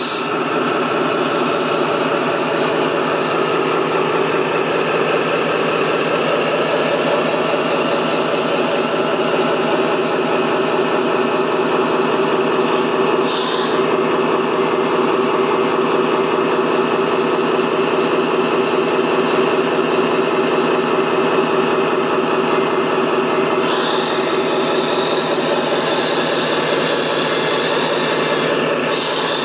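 Radio-controlled construction machine running with a steady, engine-like drone and fast even pulsing, broken by a few short hisses.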